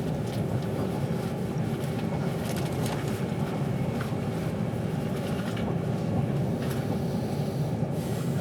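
Steady rumble of a moving passenger train heard from inside the carriage, with a faint steady hum and a few light scattered ticks over it.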